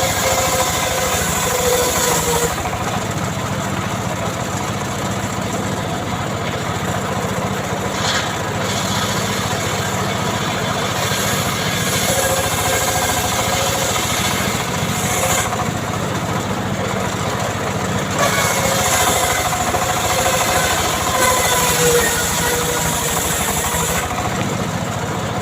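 A homemade srekel saw's small engine running continuously. Its high-pitched hiss fades and returns several times, about 2.5, 15 and 24 seconds in, as the pitch shifts slightly.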